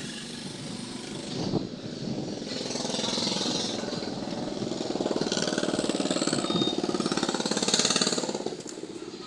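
Isuzu 4JJ1 four-cylinder turbodiesel running with an even, rapid pulsing, getting louder from about halfway through and dropping back near the end. A short knock sounds about a second and a half in.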